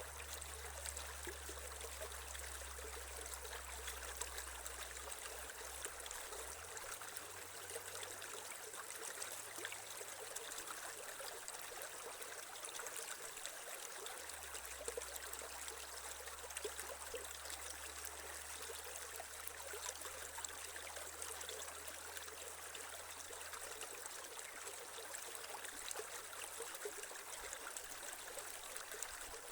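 Small creek flowing and trickling steadily over stones, a constant splashing hiss with small fine drops.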